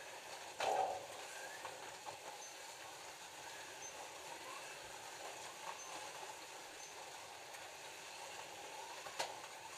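Scalextric slot cars running laps on a plastic track: a steady whir of small electric motors and wheels on the track, with a couple of sharp clicks near the end.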